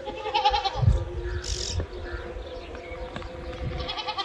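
A flock of sheep bleating, several calls overlapping, with a louder bleat near the start and another near the end. A low rumble swells about a second in.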